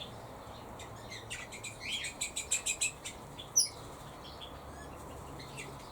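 Small aviary birds chirping: a quick run of short high chirps about two seconds in, then one sharp call, with quieter chirps either side.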